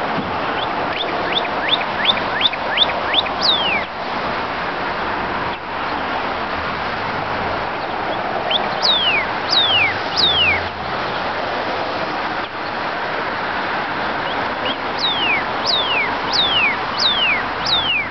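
Northern cardinal singing: three phrases of clear, down-slurred whistles. The first is a quick run of short notes ending in a longer slur; the second, a few seconds later, is three long slurs; the last, near the end, is a run of about five long slurs. A steady rushing background noise runs underneath.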